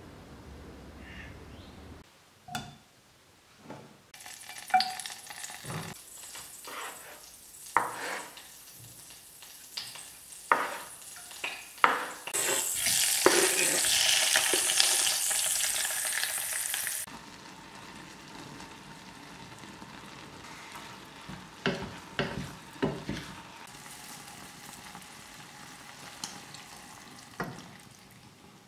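Porcini mushrooms frying in hot fat in a pot. A series of clinks and knocks from utensils against the pot comes first. The mushrooms then sizzle loudly for about five seconds, settling to a quieter steady sizzle with a few more clinks.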